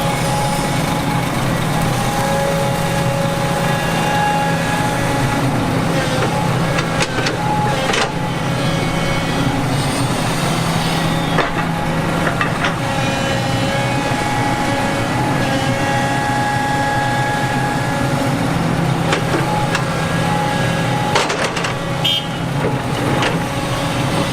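Heavy diesel earthmoving machinery running steadily, with a few sharp knocks and clanks along the way.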